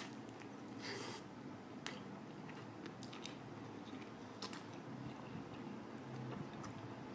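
A person chewing pizza close to the microphone, with scattered short mouth clicks and smacks over a faint steady low hum.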